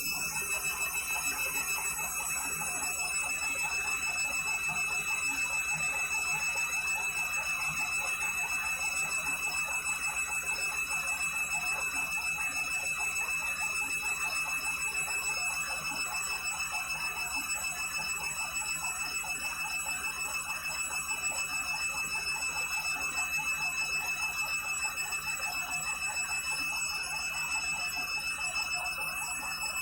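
Candy washing machine on its final spin at about 400 rpm: a steady mechanical running sound with a high motor whine and a fast, even pulsing from the turning drum.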